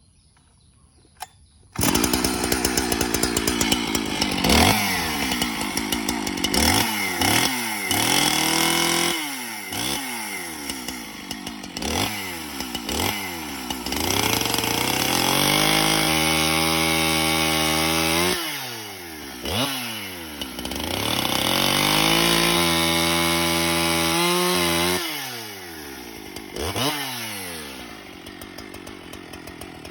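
Two-stroke chainsaw engine starting suddenly about two seconds in, then revved over and over: the pitch dips and climbs again with each throttle blip. It is held at high revs for a few seconds at a time twice, and drops back to a lower idle near the end.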